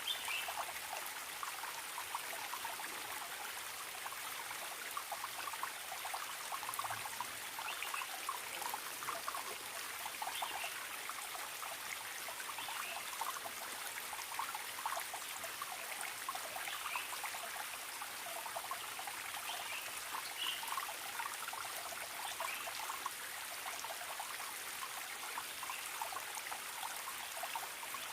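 Forest stream babbling and trickling steadily over rocks, with a few faint, brief bird chirps above the water now and then.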